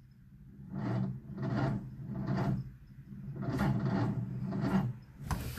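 A 1952 Nash's 6-volt starter cranking the cold engine slowly and laboriously, in uneven strokes about every half second to a second, dragged down by oil made thick by the cold. About five seconds in, the strokes come quicker.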